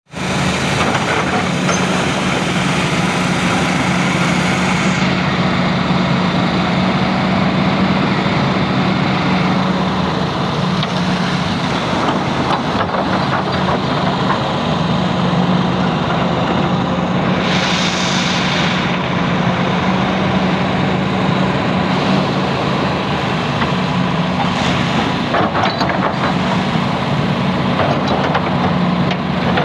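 Hydraulic excavator's diesel engine running steadily while the machine works, with a brief hiss a little past halfway.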